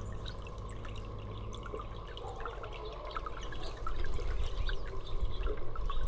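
Water dripping and trickling, many small drops in an irregular patter, with a low rumble that grows louder about two-thirds of the way through.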